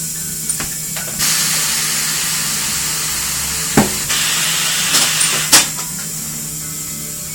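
Compressed air hissing in two long bursts, broken by a few sharp clicks, over a steady low hum: tyre-shop pneumatic equipment at work during a tyre change.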